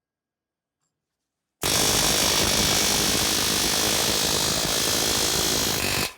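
Power tool running steadily at full tilt, loud and even, while taking out old frame rivets. It starts abruptly about a second and a half in and stops just before the end.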